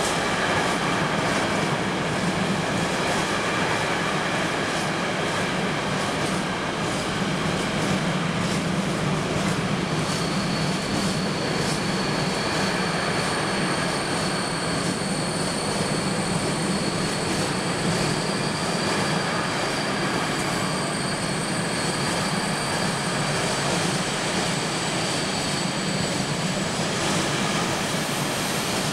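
A train rolling past on the tracks, a steady rolling rumble with faint wheel knocks over the rail joints. From about a third of the way in, thin high-pitched wheel squeal rides over it.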